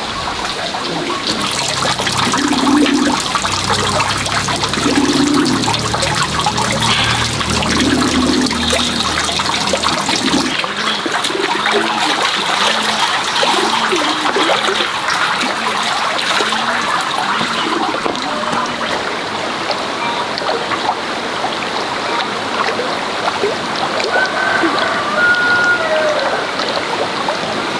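Steady trickling and splashing of running water.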